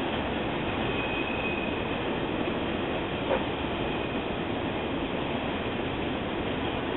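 Freight train of autorack cars rolling past: steady rumble of wheels on rail, with a faint high squeal about a second in and a single sharp knock a little past three seconds.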